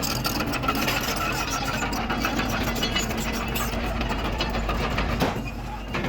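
Komatsu D31PX crawler dozer's diesel engine running steadily, with a rapid rattling clatter over it that eases briefly near the end.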